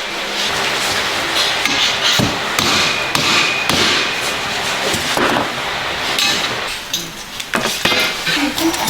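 Hammering and knocking on metal, irregular blows over a steady noisy clatter, with a few sharp knocks near the end.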